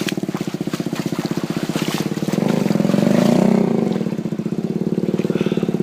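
Enduro motorcycle engine running with rapid, even firing pulses, revving up a little around the middle and easing back.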